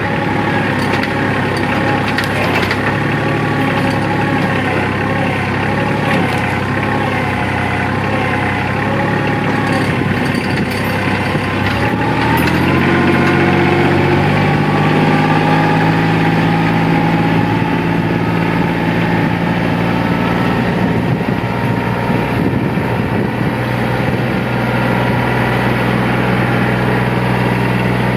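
Tractor engine running steadily, then picking up speed about 12 seconds in and holding the higher speed.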